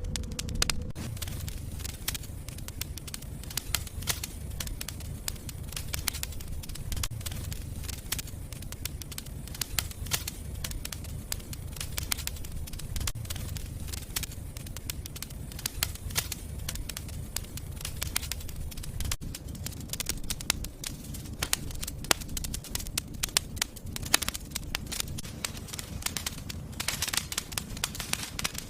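Fire burning in a fireplace: irregular crackles and pops, many a second, over a steady low rumble of the flames, with a short hiss near the end.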